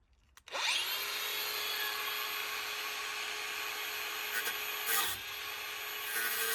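Cordless angle grinder spinning up about half a second in with a rising whine, then running steadily at speed on the steel caravan chassis, with brief harsher bursts around five seconds in and again near the end.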